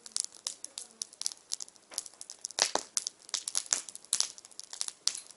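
Wood fire crackling, with irregular sharp snaps and pops; a few louder pops come in the middle.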